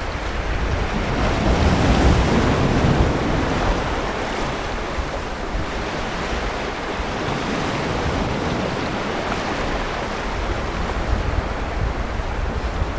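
Sea waves breaking and washing on a beach, a continuous surf with gentle swells in loudness, with a low rumble of wind on the microphone.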